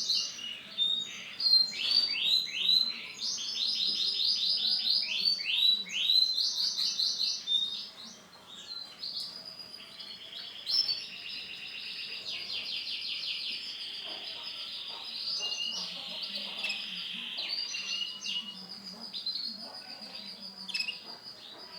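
Male canary singing: fast trills of rapidly repeated high notes, loudest in the first eight seconds, then a softer, more continuous warbling song.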